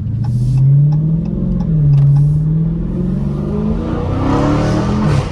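Dodge Challenger Scat Pack's 6.4-litre HEMI V8 accelerating hard and loud with its mid-mufflers deleted and the active exhaust valves fully open in track mode. The engine note climbs, falls back briefly about a second and a half in, then climbs long and high before dropping abruptly near the end.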